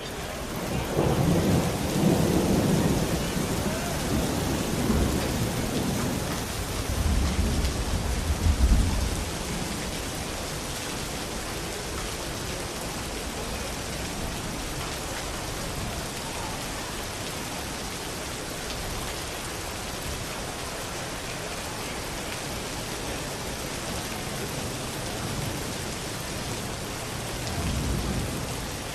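Thunderstorm: steady rain with a long rolling rumble of thunder through the first nine seconds, loudest near its end, then rain alone, with a softer rumble of thunder again near the end.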